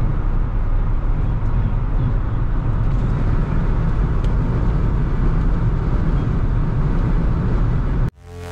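Steady road and wind noise inside a Jeep Wrangler soft top cruising at highway speed, a constant low rumble with a wind rush over it. It cuts off suddenly near the end and music begins.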